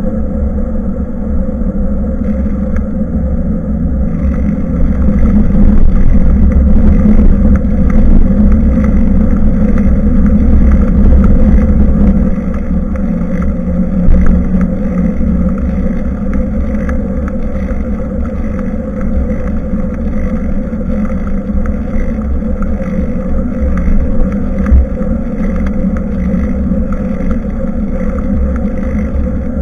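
Wind rushing and buffeting over a bike-mounted action camera's microphone, with rumble from the ride, while cycling. It grows louder for several seconds in the first half, and there are two short knocks, one about halfway through and one near the end.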